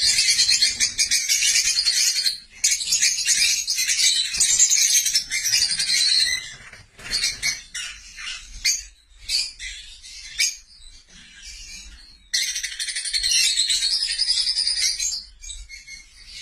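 Lovebirds chattering, a dense stretch of shrill, high-pitched calls. In the middle it breaks up into scattered single chirps, then the full chatter starts again abruptly.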